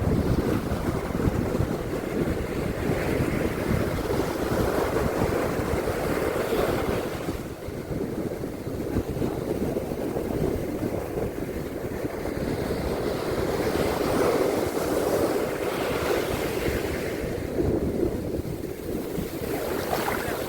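Surf breaking on a beach in a continuous wash that swells and eases in slow surges, with wind rumbling on the microphone.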